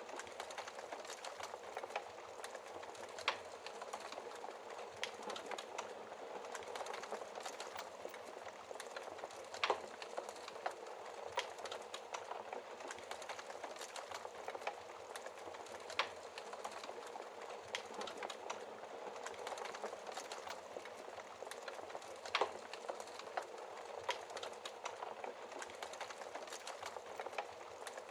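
Wood fire crackling in a fireplace: a steady hiss of burning with frequent small crackles and a few sharper pops spread through.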